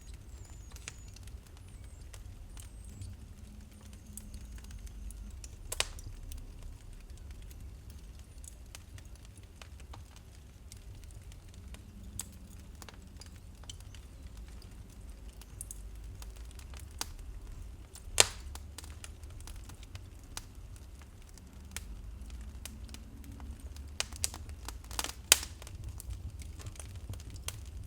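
Wood fire burning with a low steady rumble and irregular crackling, broken by a few sharp loud pops, the loudest about two-thirds of the way through and another cluster near the end.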